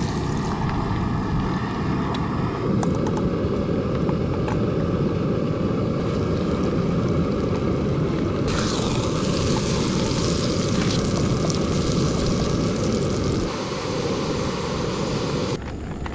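A steady low rushing roar. In the middle stretch a brighter hiss with scattered crackles is added, and the sound changes abruptly at several points.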